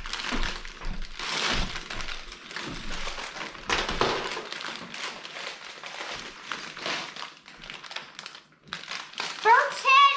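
Plastic LEGO parts bags crinkling and rustling in irregular bursts as they are handled and searched.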